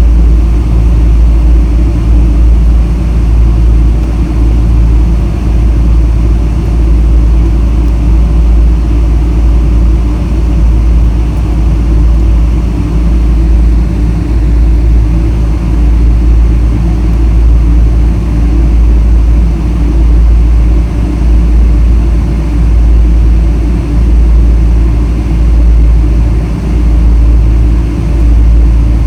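Steady, loud low rumble inside the cabin of a Boeing 777-300 airliner: engine and airflow noise that does not change.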